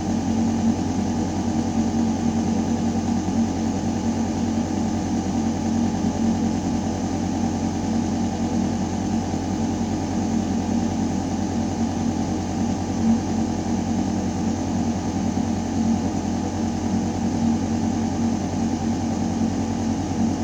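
Ventilation system in a building shaft running steadily: a deep mechanical hum of fan and air moving through metal ductwork, with a steady low tone over an even rush of air.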